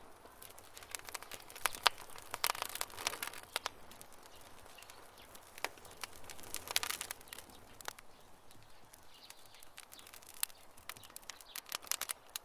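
Wood campfire crackling over a soft hiss, with sharp pops and snaps coming in irregular clusters.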